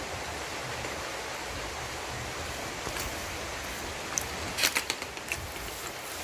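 Mouth sounds of someone eating chicken liver: a few sharp wet smacks and clicks about four to five seconds in, over a steady hiss.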